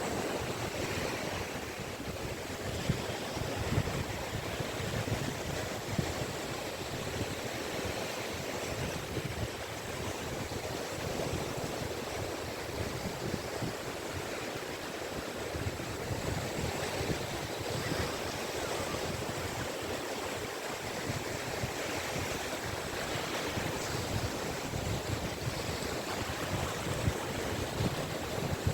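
Sea waves washing onto a beach in a steady, continuous surf, with some wind rumbling on the microphone.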